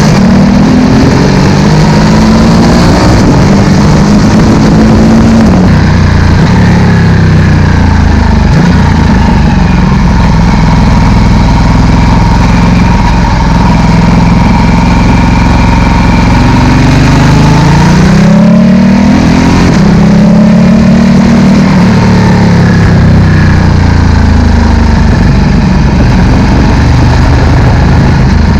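Ducati Multistrada 1260's V-twin engine running through a Termignoni slip-on exhaust. Revs rise near the start and again about two-thirds through, each time dropping back to a steadier, lower note.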